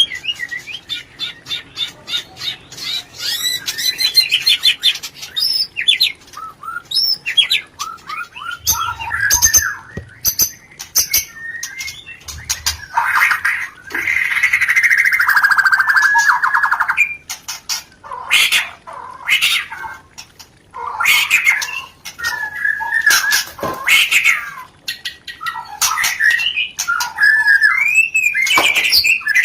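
White-rumped shama (murai batu) mating calls: rapid chattering chirps at first, then a long harsh buzzing call about halfway through, followed by sharp calls and short whistled notes. These are the courtship calls played to stimulate breeding birds.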